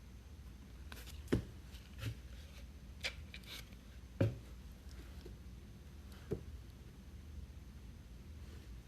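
Baseball trading cards being handled and flipped through: a handful of short taps and soft slides as cards are set down one by one.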